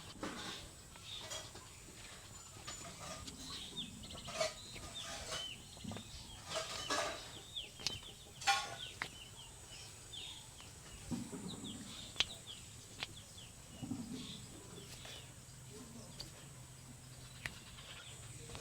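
Birds calling with many short, quick chirps, over a few sharp slaps a few seconds apart.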